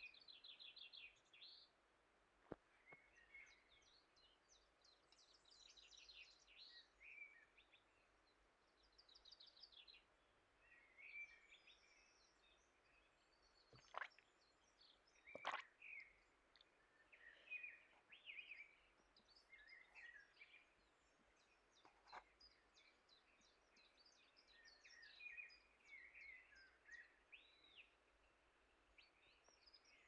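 Faint birdsong: several small birds chirping and trilling on and off, with a few light clicks, the two loudest about halfway through.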